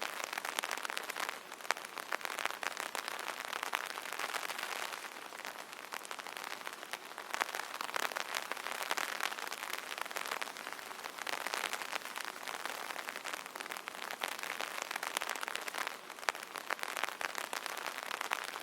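Rain falling on an umbrella canopy: a dense patter of many small drop ticks over a steady hiss, swelling and easing every few seconds.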